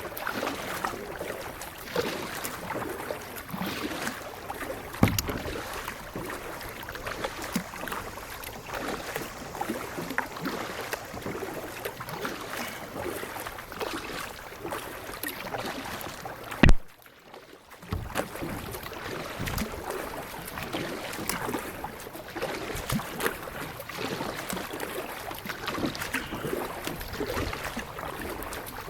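Kayak being paddled: water splashing and dripping from the paddle strokes, with a sharp click about two-thirds of the way through followed by a brief silent gap.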